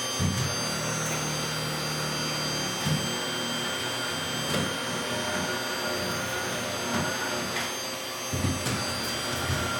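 Vacuum cleaner running steadily with a motor whine, with a few short knocks and bumps as it moves.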